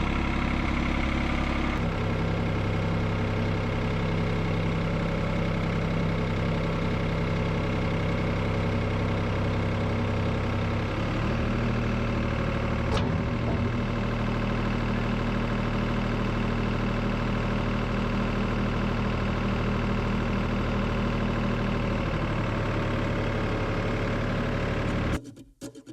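Engine running steadily, its note shifting slightly about two seconds in and again about eleven seconds in, with one sharp click about thirteen seconds in. The engine sound cuts off abruptly near the end.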